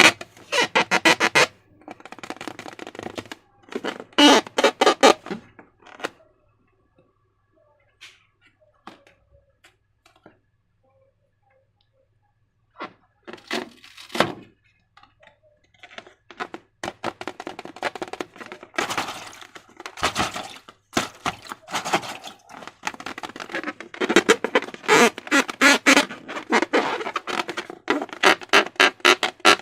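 Slime being worked by hand, a dense run of sticky crackling clicks and squelches in bursts. A pause of several seconds comes partway through.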